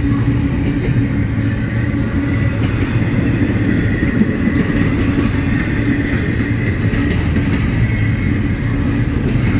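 Double-stack intermodal freight cars rolling past on steel rails: a steady, loud rumble of wheels on track, with a faint steady high tone over it.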